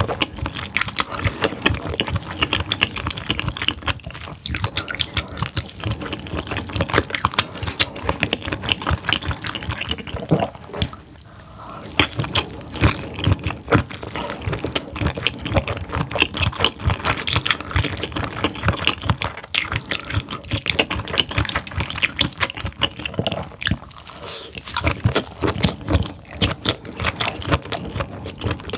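Close-miked chewing of whole steamed squid, a rapid, continuous stream of small clicks and smacks from the mouth, easing off briefly partway through.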